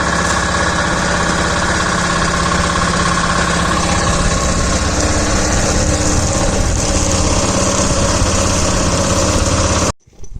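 An engine running steadily, then cutting off abruptly near the end.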